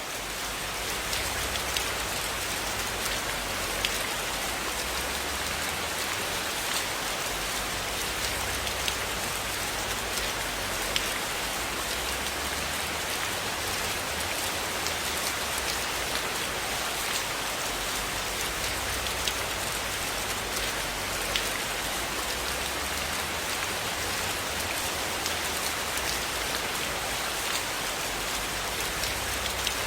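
Steady rain falling on a surface, a dense even hiss that swells in over the first second and then holds level, with scattered sharp ticks of individual drops.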